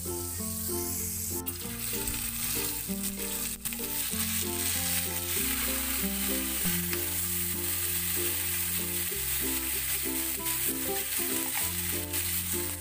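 Chicken pieces sizzling in hot melted margarine in a nonstick grill pan, the sizzle growing louder after a couple of seconds as more pieces go in, with two sharp clicks in the first few seconds. Background music with a melody and bass line plays throughout.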